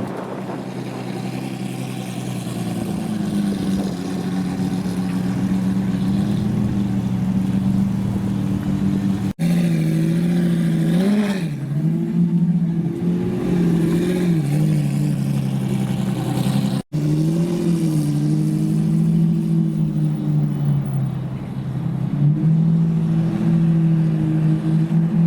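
Supercar engine idling steadily, with a few light throttle blips about ten to thirteen seconds in. The sound drops out abruptly twice where the recording is cut.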